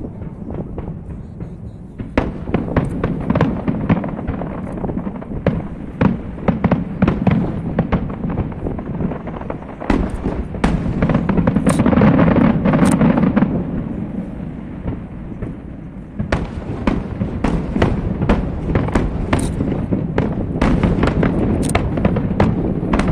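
Fireworks display: a rapid, continuous barrage of sharp cracks and deep booms over a low rumble. It is loudest and densest a little under halfway through, eases briefly, then picks up again for the rest.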